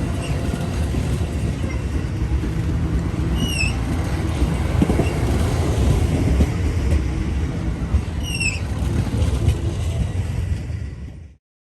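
Freight train rolling past: a steady, loud rumble and clatter of the cars on the rails. Twice there is a short high chirp. The sound cuts off suddenly near the end.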